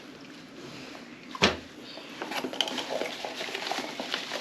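A single sharp knock, then a run of light clinks and rattles of hard objects being handled.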